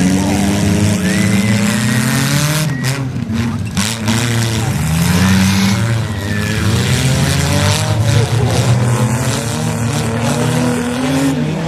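Several demolition derby car engines revving hard together, their pitch rising and falling over one another.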